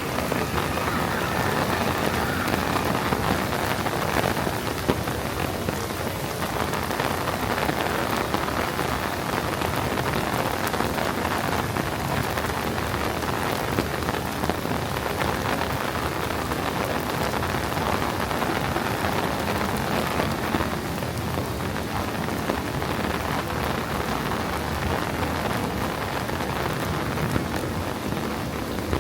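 Heavy rain falling steadily, a dense hiss of drops splashing on hard surfaces.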